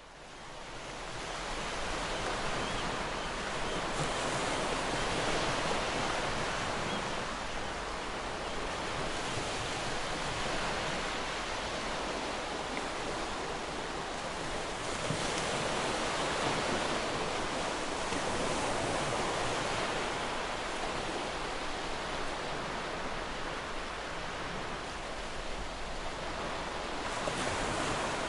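Ocean surf washing in continuously, a steady rush of water that swells and eases every few seconds. It fades in from silence at the very start.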